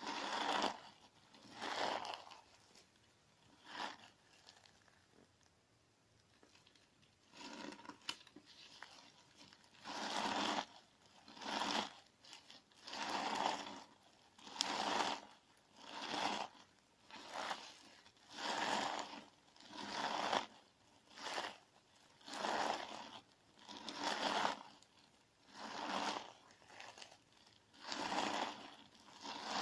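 Clear slime loaded with crunchy sand being squeezed and pressed, giving crunchy, crackling squelches in repeated bursts, about one a second. There is a quieter stretch for a few seconds after the start.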